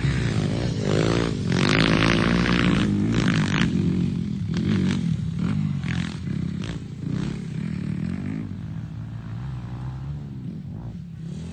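Dirt bike engine running and revving, rising and falling in pitch a few times early on and then fading away, with short rattling clicks in the middle.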